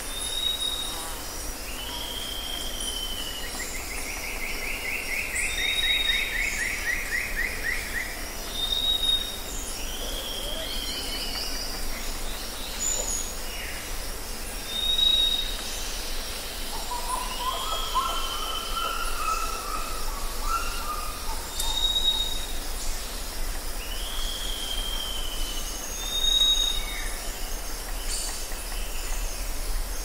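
Several wild birds calling over a steady outdoor background. A short high whistle repeats every few seconds, alongside a slurred falling call. A long rapid trill comes about four seconds in, and a lower warbling phrase in the middle.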